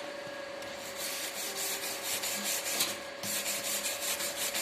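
Stick-welding arc with a 7018 electrode crackling steadily as a fill pass is laid, starting about a second in and breaking off briefly near three seconds before striking again.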